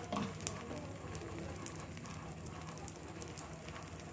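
Beaten egg and oil frying gently on a tawa under a roti, cooking over a low flame: a steady, soft sizzle with scattered small crackles.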